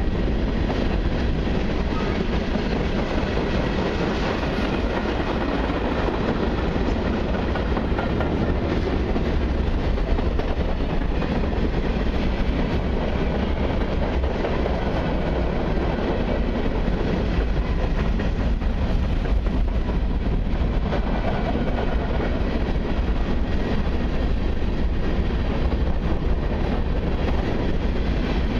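Freight cars, mostly covered hoppers, rolling steadily past at close range: a continuous rumble of steel wheels on the rails that keeps an even level throughout.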